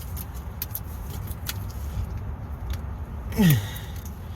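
Irregular metallic clicks and clinks from tools as a part is tightened during an oil change, over a steady low rumble. About three and a half seconds in comes a short grunt of effort that falls in pitch.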